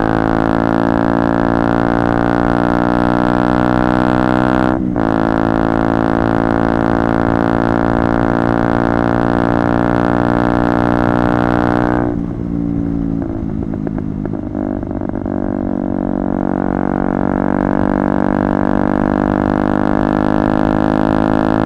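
KTM Duke 125's single-cylinder four-stroke engine running loud through a Radical Racing GP Carbon Black exhaust with its dB-killer out, holding steady revs. There is a brief break in the note about five seconds in. About twelve seconds in the revs drop and stutter for a few seconds, then come back up and hold steady again.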